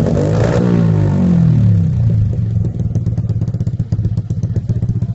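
Motorcycle engine through an aftermarket trioval exhaust muffler, falling from a rev back to idle over the first two seconds, then idling with an even, pulsing exhaust note.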